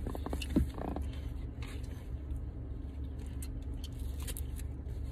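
Steady low hum of a car idling, heard from inside the cabin, with scattered small clicks and rustles of a cover being handled and fitted. There is a short knock about half a second in.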